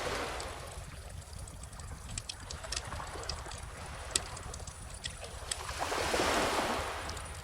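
Wood bonfire crackling with scattered sharp pops, over the wash of calm ocean waves; a wave swells up and breaks about six seconds in, then recedes.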